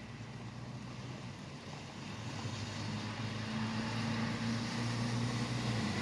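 Rain and highway traffic: an even hiss with a passing vehicle's low engine drone and tyre noise growing louder from about two seconds in.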